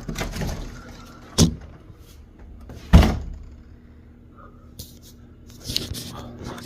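Two heavy thuds, about a second and a half in and about three seconds in, the second louder, followed by a shorter patch of rustling or knocking near the end.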